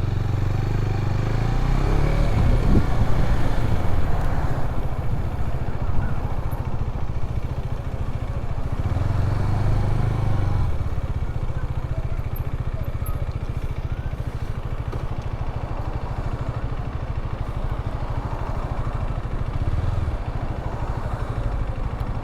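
Motorcycle engine running while riding, its low note swelling a few times as the throttle is opened.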